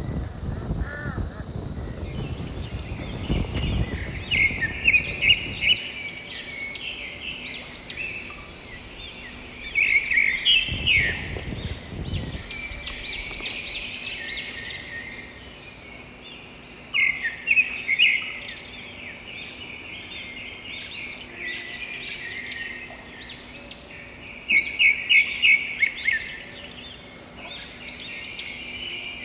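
Birds singing and chirping, with a loud run of rapid repeated notes coming back about every six to seven seconds. Through the first half there is a steady high hiss that starts and stops abruptly, and low wind rumble on the microphone at the start.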